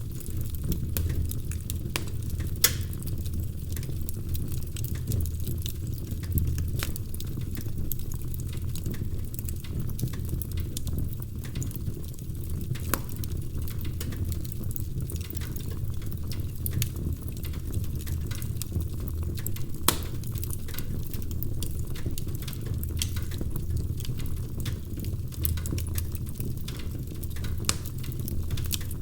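Wood fire crackling in a fireplace: a steady low rumble of the flames with irregular small snaps throughout and a few louder pops, about 3, 6, 13 and 20 seconds in.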